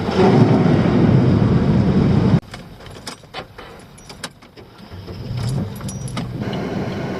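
A loud rushing noise cuts off suddenly about two and a half seconds in. Then come keys jangling and a few sharp clicks, and a steady low car rumble comes back near the end.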